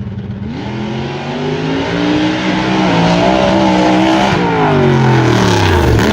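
Drag race car making a pass: the engine note climbs steadily in pitch under hard acceleration for about four seconds, then falls away as the run ends short.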